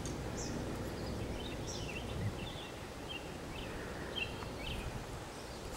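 Steady outdoor background noise with scattered short, high bird chirps.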